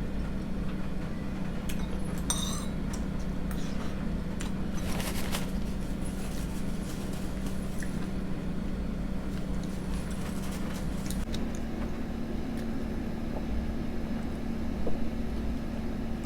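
Steady mechanical hum, like a fan or air conditioner, with a few light clinks of tableware, about two seconds in and again about five seconds in.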